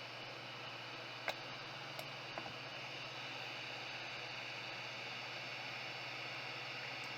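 Steady hiss with a low hum underneath, broken by a sharp click about a second in and two fainter clicks shortly after.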